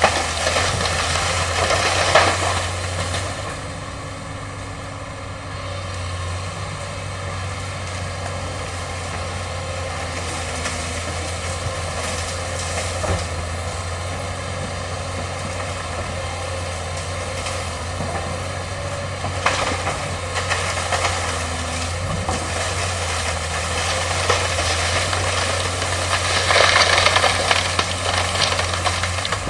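Hydraulic excavator's diesel engine running steadily, with louder, rough noise at the start, briefly about two-thirds of the way in, and again near the end.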